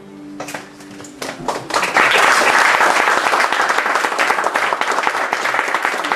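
Audience applauding as the last held cello and guitar notes die away; scattered claps start about half a second in and build to full, steady applause by about two seconds.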